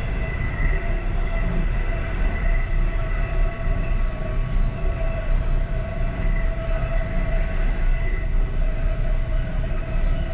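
Passenger train running steadily, heard from inside its last car: a continuous low rumble of wheels on rail with a constant high hum on top.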